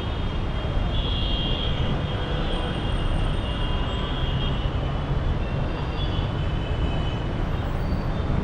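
Steady traffic noise of a busy city street: engine rumble and tyre noise of passing cars, buses and motorbikes.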